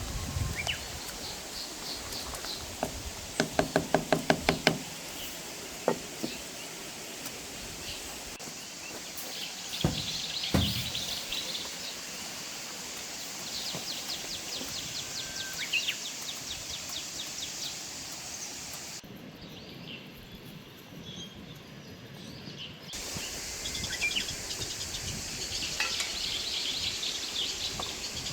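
Small birds chirping in quick trills, with a fast run of about eight ringing knocks a few seconds in and a couple of dull thuds about ten seconds in.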